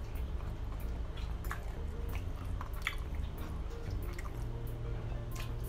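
Close-up chewing and wet mouth sounds of a person eating fries, with scattered short clicks.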